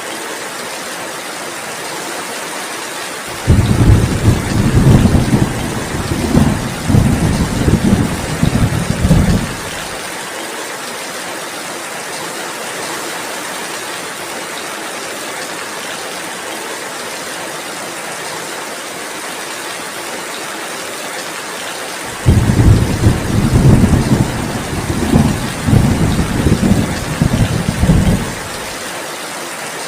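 Steady rainfall with two long rolls of thunder, each rumbling for about six seconds, one a few seconds in and one near the end.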